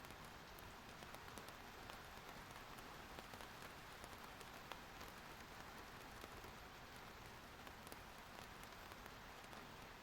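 Faint, steady rain: an even hiss with scattered ticks of single drops.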